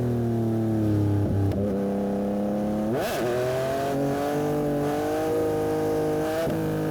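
Yamaha MT-09 SP's three-cylinder engine through a Dominator aftermarket exhaust, riding along. The note sinks slowly at first, then a short sharp rev rises and falls about three seconds in before it settles to a steady pitch.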